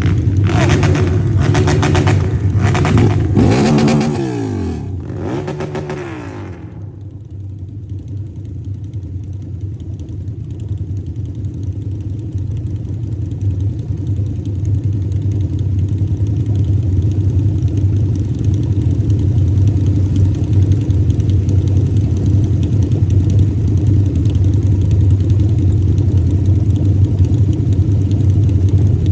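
Harley-Davidson motorcycle engine revving up and down a few times, its pitch falling away about five seconds in. After that it settles into a steady low drone under road and wind noise.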